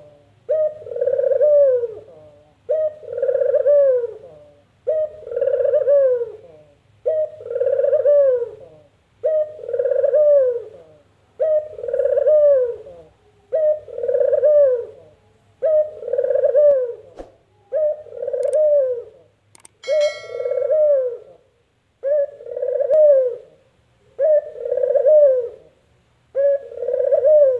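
Puter dove (domestic ringneck dove) cooing its rolling 'kuk-geruuuk' call over and over, about one call every two seconds, each ending in a falling glide. A short high squeak cuts in between calls about twenty seconds in, over a faint low hum.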